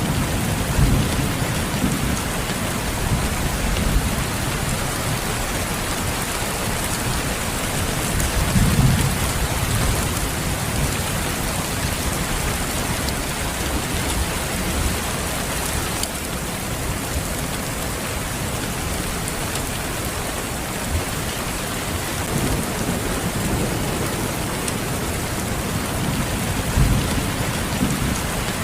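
Steady rain, a dense even hiss, with low rumbles swelling now and then, the strongest about nine seconds in.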